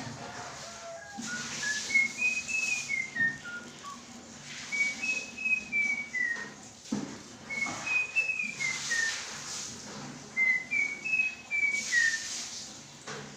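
Javan pied starling whistling a clear melodic phrase four times, each a run of short pure notes that climbs and then falls, with bursts of harsh hissing chatter in between.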